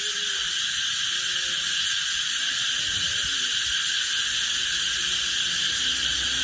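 A dense chorus of cicadas: a steady, ear-piercing drone that does not let up.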